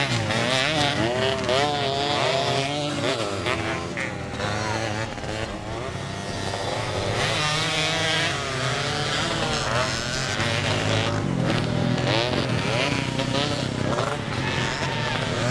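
Several motocross dirt bikes racing, their engines revving up and down with the pitch rising and falling constantly as riders work the throttle.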